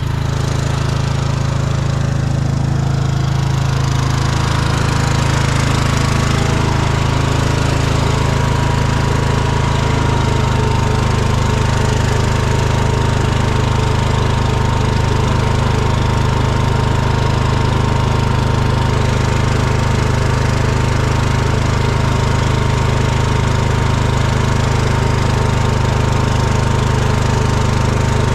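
An engine running steadily at constant speed, with a thin steady whine that comes in about six seconds in.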